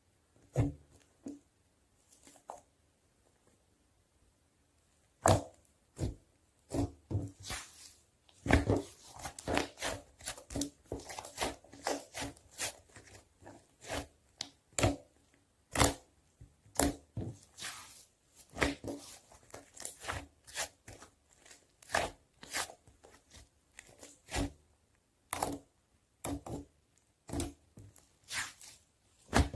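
Clay slime being pressed, stretched and poked by hand, giving sticky pops, clicks and tearing crackles, sparse at first and then coming thick and fast.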